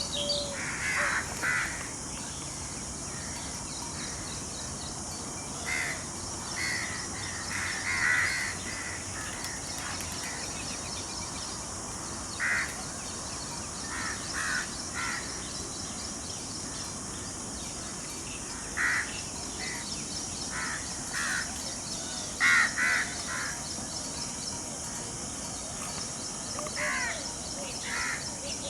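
Crows cawing: short calls, single or in runs of two or three, every few seconds, over a steady high-pitched hiss.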